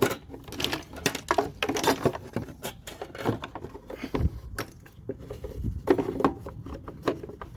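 Irregular clicks, knocks and rattles of a fuel tank being worked by hand onto a small lawn mower engine, with a few duller thumps about four to six seconds in.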